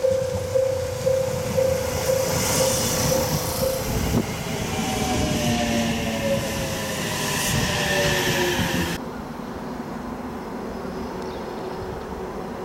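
JR Central 313 series electric train passing close by, rumbling on the rails with its traction motors giving several falling tones as it slows for a station stop. A repeating ringing tone sounds about twice a second for the first few seconds. About nine seconds in, the sound cuts off abruptly to a quieter, distant train hum.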